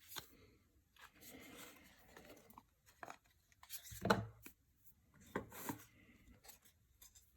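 Faint handling noise of trading cards being gone through: soft rustling and scraping of cards and their packaging, with a few sharper clicks and taps, the loudest about four and five and a half seconds in.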